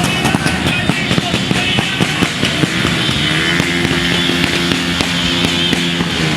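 A motorcycle engine runs steadily, changing pitch briefly about halfway through, over music, with a steady scatter of sharp cracks and pops.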